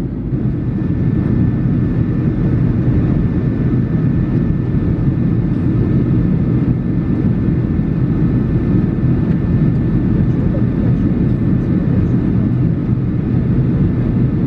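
Steady low rumble of airflow and engines heard inside the cabin of a Boeing 737-800 in flight, with its CFM56-7B turbofans running evenly.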